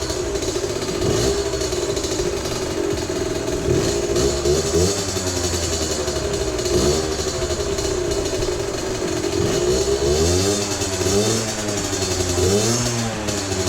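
Derbi Senda 50's 50cc two-stroke single-cylinder engine running, its revs rising and falling with repeated throttle blips, the blips closer together in the last few seconds.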